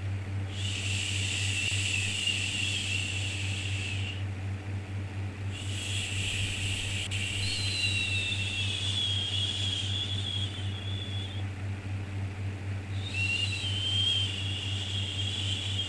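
A long, drawn-out "shhh" shushing sound for soothing a baby. It comes in three stretches of several seconds each, with a short pause of about a second between them, over a steady low hum.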